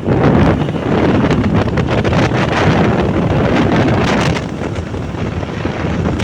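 Wind buffeting the microphone of a moving motorbike, a loud rushing roar, with the motorbike's running and road noise underneath.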